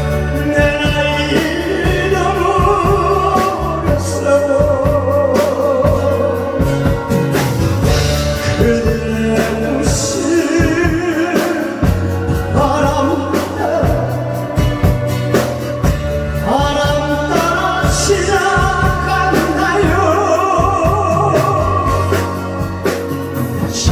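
A man singing a slow Korean 7080-era pop ballad over a loud backing track with a steady beat and bass line.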